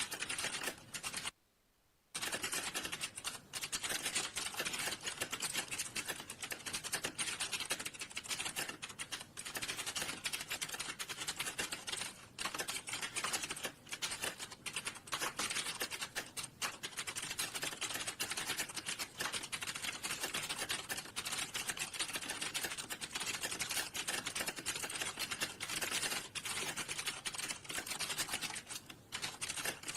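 Fast, continuous typing on a computer keyboard: rapid key clicks with one brief pause near the start.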